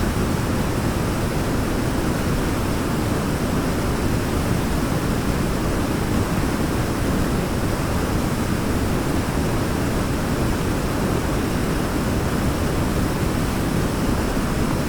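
Waterfall rushing in a steady, unbroken roar of falling water, heaviest in the low end.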